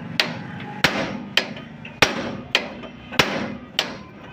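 Hammer blows, about eight sharp strikes at a steady pace of under two a second, each with a short ring, struck to free a Massey Ferguson 260 tractor's steering wheel.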